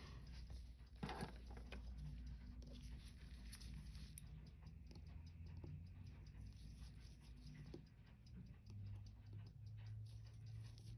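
Faint small clicks and scratches of watchmaker's tools and small metal parts being handled on the bench, a slightly louder click about a second in, over a steady low hum.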